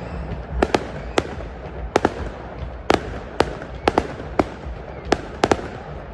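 Fireworks bursting: about a dozen sharp bangs at uneven intervals, some in quick pairs, over a steady background noise.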